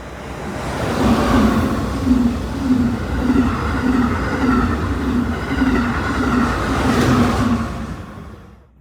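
Amtrak Acela high-speed trainset passing at speed, swelling up within about a second, with its wheels thumping over the rails in an even rhythm about twice a second and a whine above, then fading away near the end.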